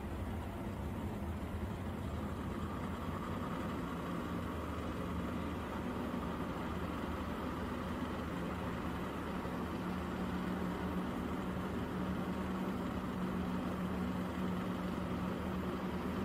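Drag race car engines idling steadily behind the starting line. The drone grows a little stronger about halfway through.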